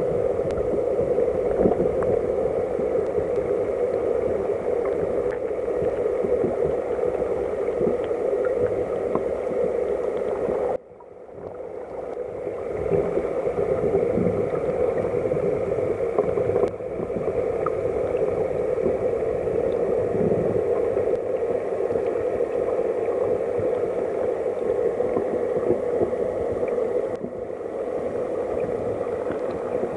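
Headwater mountain stream flowing: a steady rush of water. It drops away suddenly about a third of the way through and swells back over a couple of seconds.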